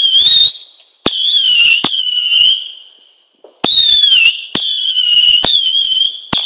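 Whistling fireworks going off one after another: about five shots, each a sharp crack followed by a loud, high, wavering whistle lasting about a second, with a pause of around a second near the middle.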